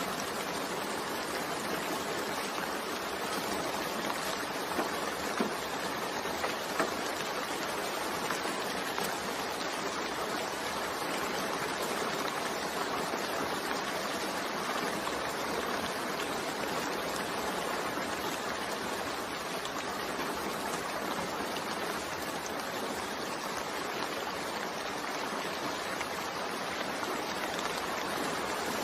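Steady rain falling, an even hiss with a few sharper ticks of single drops between about five and seven seconds in.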